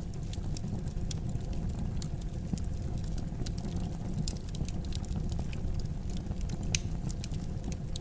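Fire burning in a fireplace, crackling with scattered sharp pops over a low steady rumble; the loudest pop comes near the end.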